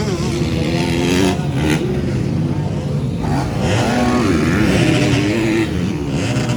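Several motocross bikes racing, their engines revving, with overlapping pitches rising and falling as the riders work the throttles. Loudest about four to five seconds in.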